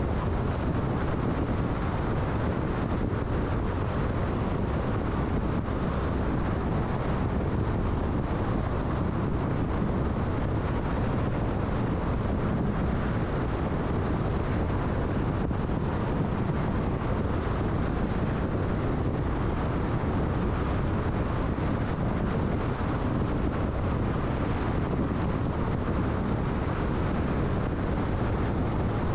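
Steady road noise of a car cruising at freeway speed: tyre and wind noise, even and unchanging, with most of the sound low down.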